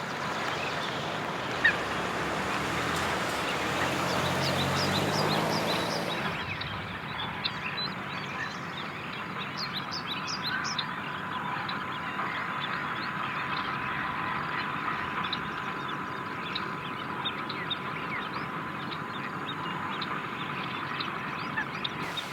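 Outdoor village ambience with many small birds chirping throughout. A low drone, like a passing motor, swells and fades out over the first six seconds, and a faint steady high hum runs after that.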